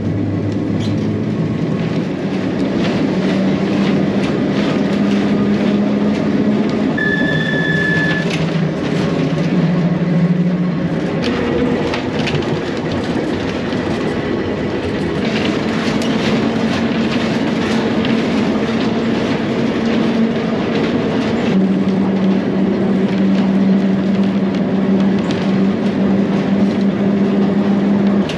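Manx Electric Railway electric tramcar running along the track, heard on board. A steady rumble of wheels on rail with clicks over the rail joints carries a motor hum that drops in pitch partway through and rises again later. A brief high tone sounds about seven seconds in.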